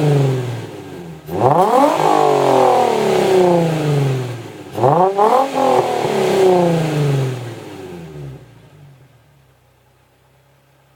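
Nissan 350Z's 3.5-litre V6 through a Stillen aftermarket exhaust, revved twice in sharp throttle blips. Each rev falls back slowly before the engine settles to a quiet idle.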